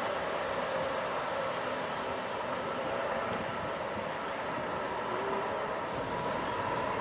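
Amtrak Acela Express high-speed electric trainset running past on the rails: a steady rush of wheel and rail noise with a faint whine.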